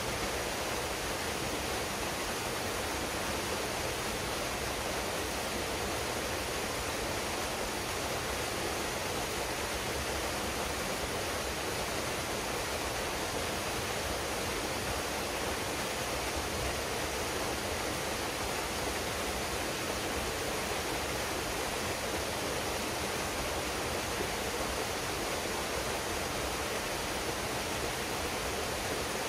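Waterfall pouring into a pool: a steady, even rush of falling water that does not change.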